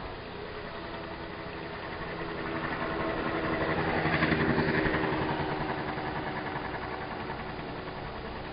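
Fishing boat's inboard engine running as the boat passes, growing louder to a peak about halfway through and then fading.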